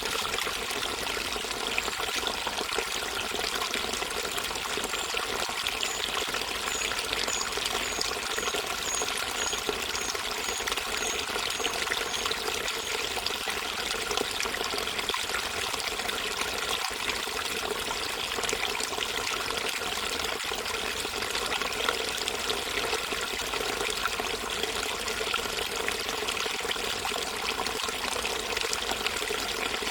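Water flowing and trickling steadily. A run of short high-pitched notes, about two a second, sounds over it for several seconds a few seconds in.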